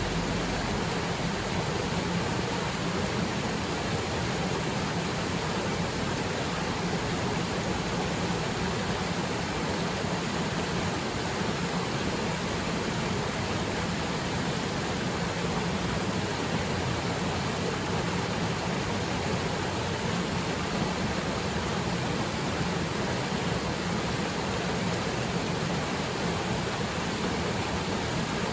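Waterfall plunging into its pool: a steady, even rush of falling water.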